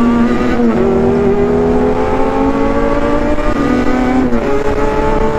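Honda CB400 Super Four's inline-four engine accelerating hard under the rider, its pitch climbing steadily through each gear, with an upshift about half a second in and another about four seconds in.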